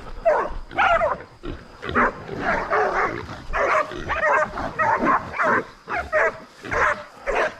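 Hunting dogs barking in a rapid run of short calls while a caught feral pig squeals, the dogs holding the pig.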